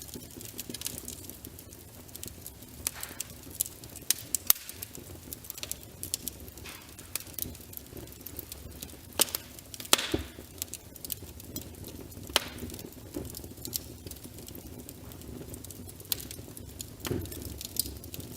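Wood fire crackling in a fireplace: irregular small snaps and pops, with a few louder pops, the loudest about ten seconds in.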